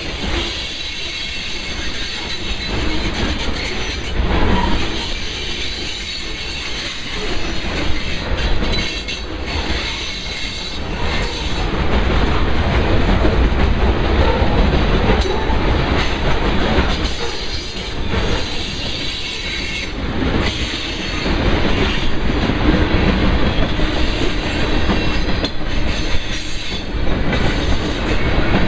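Freight train rolling past close by: covered hopper cars and then tank cars rumbling along the track, with wheels clacking over the rail joints. It gets louder about twelve seconds in.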